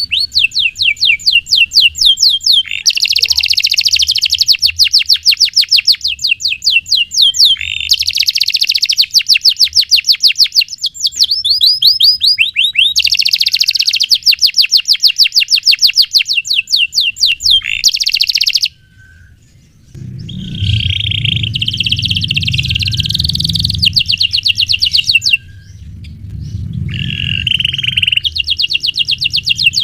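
Domestic canary singing long rolling trills of rapid, evenly repeated high notes. The song breaks off for about a second two-thirds of the way through, goes on in a harsher, buzzier stretch with a low rumble under it, and the fast rolls return near the end.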